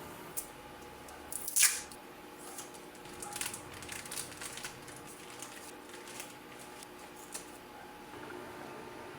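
Household handling noises over a steady low hum: one short, sharp scraping hiss about one and a half seconds in, then a run of small clicks and rustles and a few scattered ticks.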